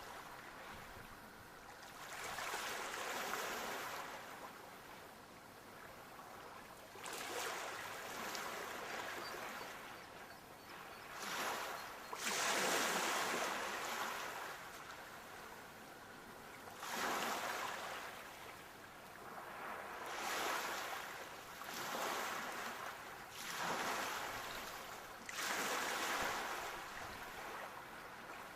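Sea waves surging in and washing back, one swell after another every two to four seconds, each rising to a hiss and fading away.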